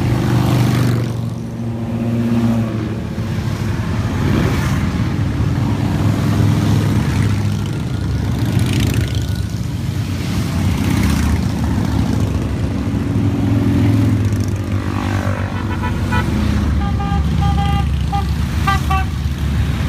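A steady stream of motorcycles riding past, their engines running loud and low without a break. Near the end a horn beeps in a quick run of short toots.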